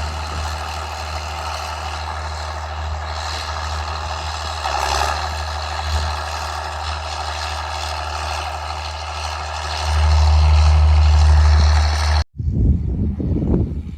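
Straight-piped John Deere 4630's six-cylinder diesel running steadily with a deep exhaust note, growing louder about ten seconds in. It cuts off abruptly near the end, giving way to uneven, gusty noise.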